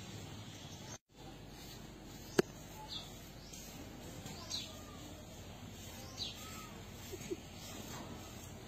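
Outdoor ambience over a steady hiss, with short falling bird chirps every second or two. A single sharp click comes about two seconds in, and the sound cuts out briefly about a second in.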